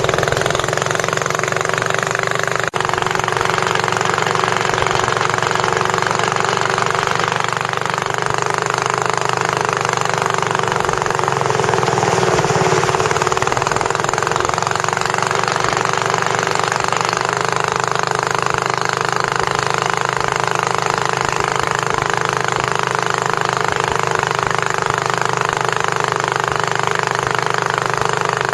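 Boat engine running steadily at a constant speed, loud and rattly.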